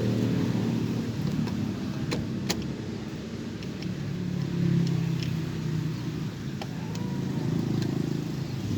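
A motor vehicle's engine runs with a low hum that swells and fades, with a few light clicks.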